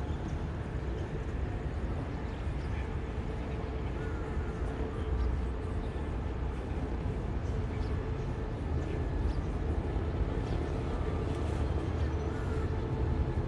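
Steady low rumble of a train moving slowly through a rail yard, with a faint steady hum and a few faint short chirps above it.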